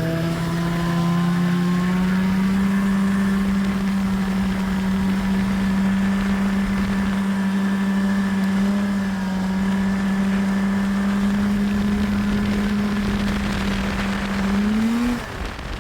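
Snowmobile engine running at steady high revs. Its pitch climbs as it speeds up, holds level, then rises once more briefly near the end before the sound falls away.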